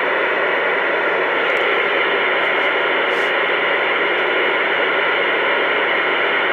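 Steady static hiss from a two-way radio receiver left open with no voice on the channel.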